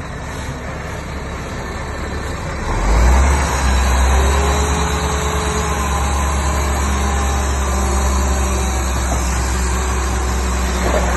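Heavy diesel engine of earthmoving machinery running with a deep, steady rumble, growing louder and heavier about three seconds in.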